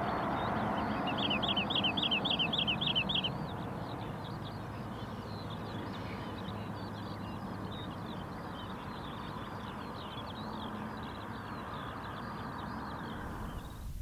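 Wild birds calling in a meadow: a quick run of about ten high chirping notes in the first few seconds, then fainter scattered chirps from several birds over a steady background noise, ending abruptly near the end.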